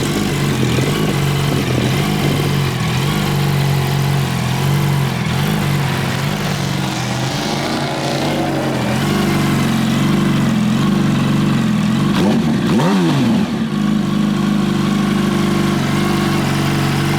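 2008 Yamaha R1's inline-four engine idling through a short Scorpion exhaust with the catalytic converter removed. About twelve seconds in there is one quick blip of the throttle: the pitch rises and falls back to idle.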